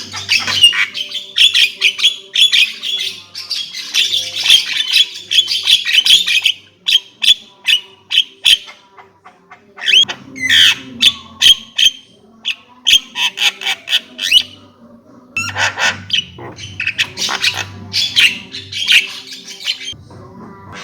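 Javan myna (jalak kebo) calling in long runs of harsh, rapid chattering and squawks, broken by a few short pauses.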